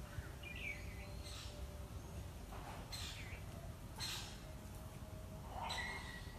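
Birds calling now and then outdoors, a few short chirps scattered through, over a steady low rumble of background noise.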